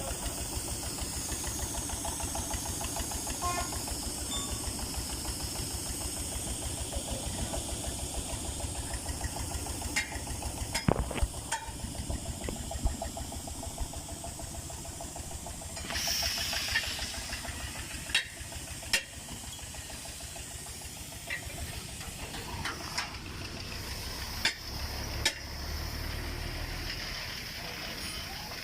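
Tire repair shop work: a motor runs steadily with a rapid low pulsing and a constant hiss, broken by scattered sharp knocks and a short burst of hissing air about sixteen seconds in.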